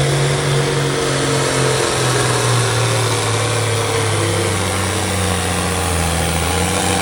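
Farm tractor engine running hard while pulling a weighted sled in a tractor pull, its note dropping about two seconds in and staying lower as the load builds.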